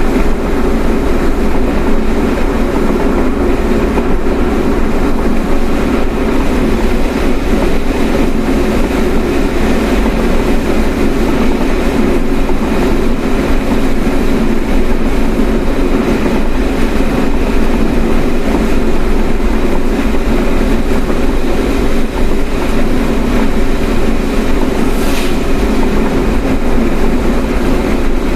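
Steady road and engine noise heard from inside a moving car, a constant low rumble with no break.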